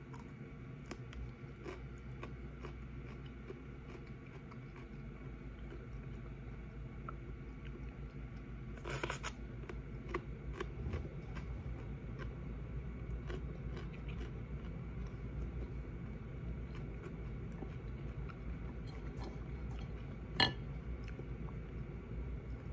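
Close-up mouth sounds of someone eating: biting and chewing a crisp cucumber slice, with many small crunches and wet clicks over a steady low hum. A louder cluster of crunches comes about nine seconds in, and a single sharp click about twenty seconds in.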